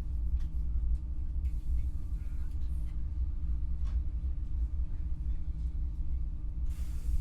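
Passenger train interior: a steady low rumble with faint steady hum tones, scattered light clicks and rattles, and a brief hiss about a second and a half in.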